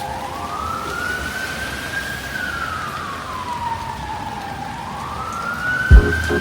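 Emergency vehicle siren wailing: one tone slowly rising and falling, one full cycle every three to four seconds, over a steady hiss. Low, loud thumps begin near the end.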